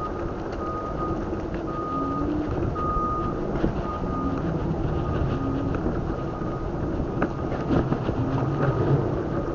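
Electric scooter ride noise, a steady rush of tyres and wind, with a high electronic beep repeating about once a second.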